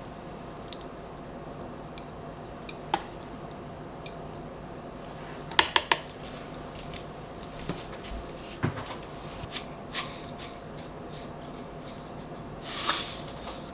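Dishes and utensils being handled: scattered light clinks and clicks, a quick run of three sharp clinks about halfway through, and a short hissing noise near the end, over a steady low hum.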